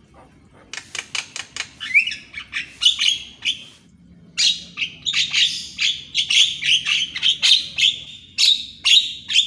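Javan myna (jalak kebo) singing a chattering song: rapid harsh clicks and whistled notes with a short rising whistle. There is a brief pause about four seconds in, then denser, continuous chattering.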